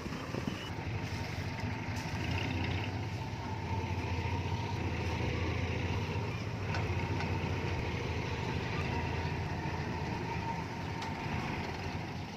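Heavy diesel engine of a construction machine running, growing louder about two seconds in and easing off near the end.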